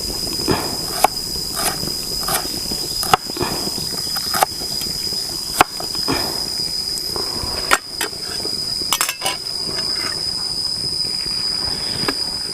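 A steady high-pitched insect drone, with a dozen or so sharp, irregular knocks spread through it.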